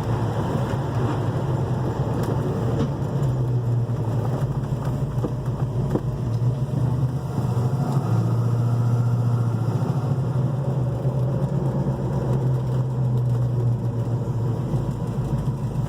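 A 1969 Dodge Charger's 440 big-block V8 running steadily on a drive, its low note shifting slightly a couple of times.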